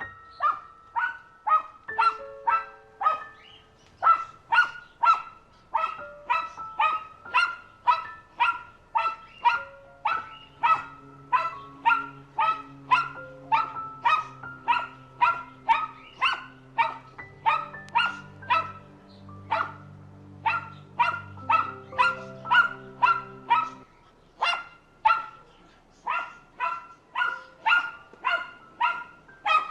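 A dog barking over and over at a steady pace, about two barks a second, with background music that holds low sustained notes through the middle.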